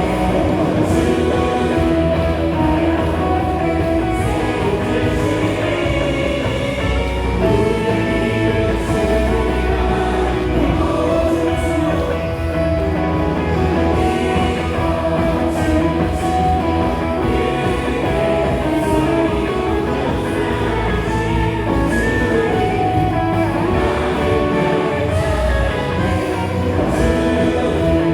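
A live worship band playing a praise song, with drums, bass, electric guitar and keyboard under singing voices.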